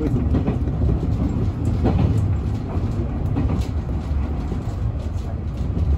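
Nankai 1000 series electric train running at speed, heard from inside the car: a steady low rumble with a few sharp clicks.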